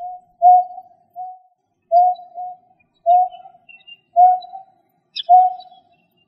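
A bird calling a short, low hooting note over and over, about once a second, each note dying away with a brief tail, as in a recorded lure call; a few faint high chirps come in about five seconds in.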